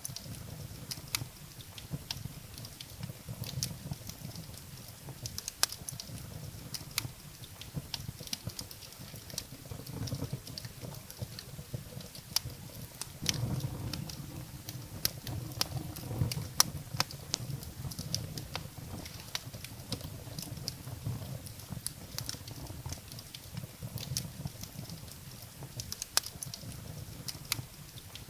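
Wood fire burning in a fireplace: irregular sharp crackles and pops of burning firewood over a low, steady rumble of the flames.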